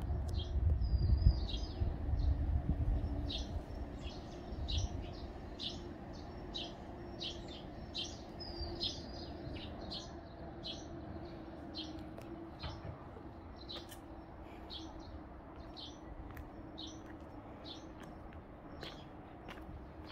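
Small birds chirping repeatedly, short high notes about one or two a second, with the odd longer slurred note. A low rumble is heard over the first few seconds, then fades.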